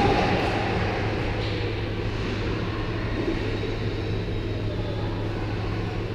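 Steady ice-arena background: a constant low hum under a general hubbub, with no distinct hits or whistles.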